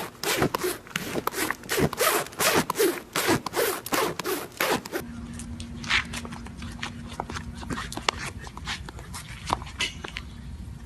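Rapid rasping scrapes, several a second, loud at first. About five seconds in they turn fainter and more scattered over a steady low hum.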